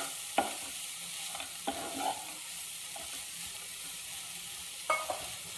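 Chopped spinach sizzling as it fries in butter and ghee in a nonstick wok, stirred with a wooden spatula: a steady sizzle with a few short scrapes and taps of the spatula against the pan.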